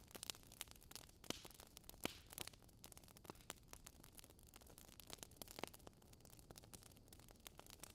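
Logs burning in a fireplace, crackling with soft, irregular small pops and snaps over a faint hiss. A sharper pop comes about two seconds in.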